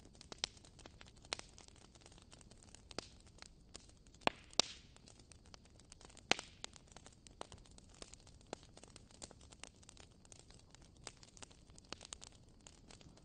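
Fire crackling: irregular sharp pops and snaps over a faint steady hiss, with the loudest pops a little over four seconds in and around six seconds in.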